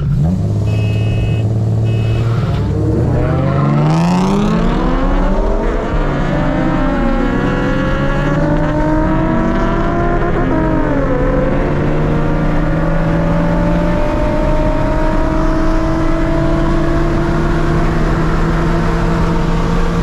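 Several Nissan VQ V6 cars (350Zs and a 3.7-litre) launching from a standing start in a drag race, engines revving up through the gears. The pitch climbs from about two seconds in and drops at shifts near seven and eleven seconds, then holds steady.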